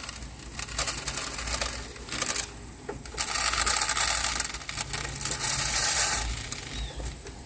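Wild bird seed being poured into a bird feeder, a dense patter of small seeds hitting and sliding. It comes in short pours, with the longest and loudest one starting about three seconds in.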